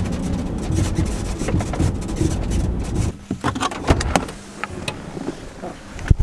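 Camper van rumbling along a rough backcountry road, then the rumble drops away about halfway as it stops. Scattered clicks and knocks follow, and a door thunks shut near the end.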